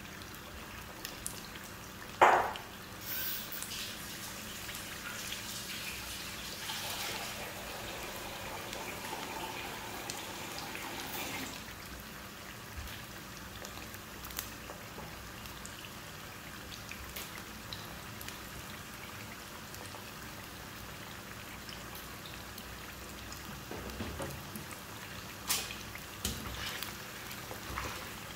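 Chicken pieces sizzling and crackling in hot oil in a shallow frying pan, with one sharp knock about two seconds in and a few clicks near the end as a spatula stirs the pieces.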